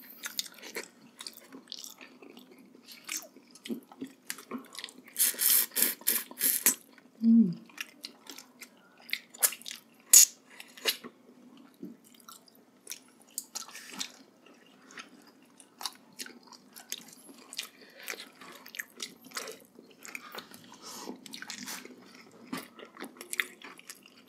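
Close-miked eating of braised pork hock: chewing and gnawing meat and skin off the bone, with wet smacking, sucking and short sharp clicks. A louder stretch of sucking comes about five seconds in and lasts about two seconds.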